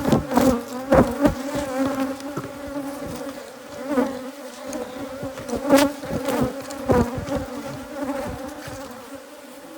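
A dense cloud of Africanized hybrid honeybees buzzing around an opened hive: a steady droning hum from a colony the beekeepers call more aggressive than most. Several sharp clicks and knocks cut through it, the loudest about a second in and near six and seven seconds.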